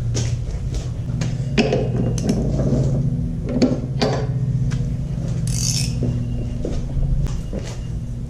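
Metal hand tools clinking and clattering, with scattered sharp clicks, over a steady low hum. A brief hiss comes a little past the middle.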